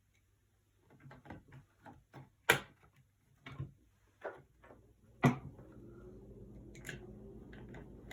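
Clicks and knocks of small metal gun parts and tools being handled on a workbench, with two sharp, louder knocks about two and a half and five seconds in. A steady low hum comes in with the second knock.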